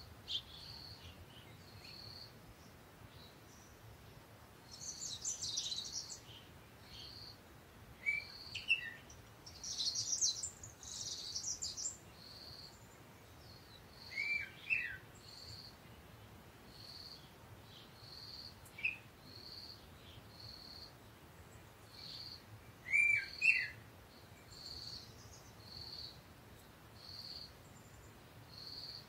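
Birds chirping: a short high pip repeats about once a second, with a few sharp falling chirps every several seconds. Brief scratchy rustling comes twice, around five and ten seconds in.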